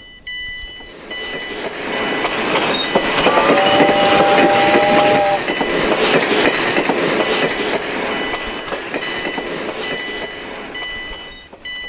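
A train passing over a level crossing: rumbling wheel noise swells to its loudest mid-way and fades, with a short two-tone whistle blast about three and a half seconds in. A crossing warning bell dings steadily at the start and again near the end.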